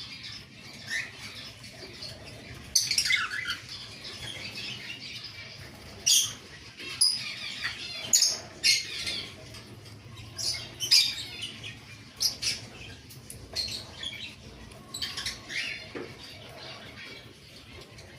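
Newly hatched bird chicks peeping: a dozen or so short, high-pitched squeaky calls at irregular intervals.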